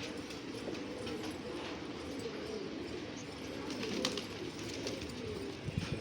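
Pigeons cooing continuously, several low, wavering coos overlapping, with a few sharp clicks.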